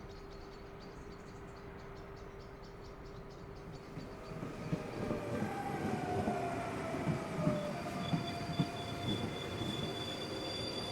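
Faint steady hum with high rapid ticking, then from about four seconds in a rumbling, clattering vehicle sound builds, with high squealing tones sliding and then holding steady over it.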